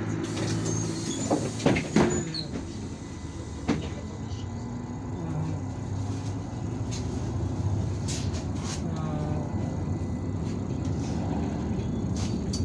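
Cabin sound of an IVECO Urbanway 18M articulated city bus under way: a steady low engine drone, with a few sharp knocks and rattles about one and a half to two seconds in and another near four seconds.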